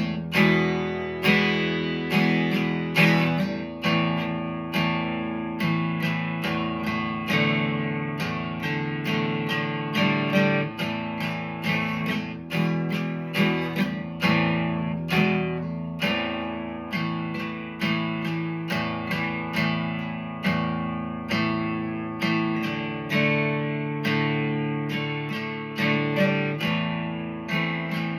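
Instrumental break of acoustic guitar, strummed chords in a steady rhythm, with no singing.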